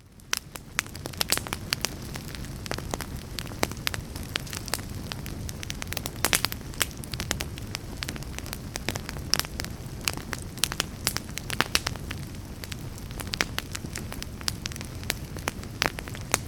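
Log fire burning in a fireplace: a steady low rumble of flames with frequent sharp crackles and pops at irregular intervals.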